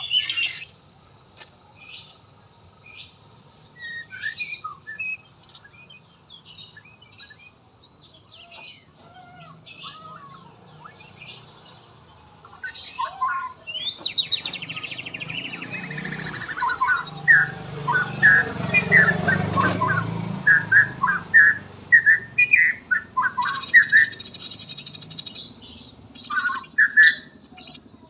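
A murai songbird singing in a run of short, varied whistles and chirps, loudest and quickest in the second half. A low rumble swells and fades in the middle.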